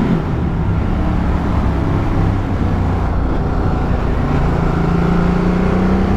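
Motorcycle engine running under way, with wind and road noise. Its pitch rises a little in the second half as the bike accelerates.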